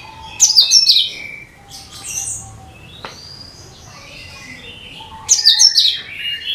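Cucak kinoi singing: two loud bursts of rapid, high chattering notes, one about half a second in and another near the end, with softer whistled phrases between them.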